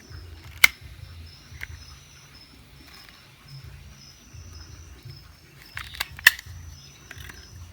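Rural outdoor ambience: an insect chirping steadily in a high pulsing tone over a low rumble, broken by a few sharp clicks or snaps, one about half a second in, one about a second and a half in, and two close together about six seconds in.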